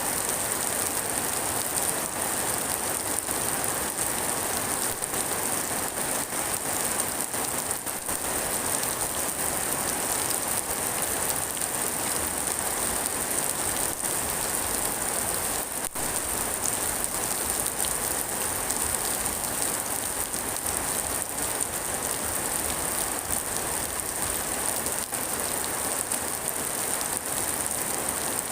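Steady rain falling and pattering on surfaces, an even wash of drops with no let-up.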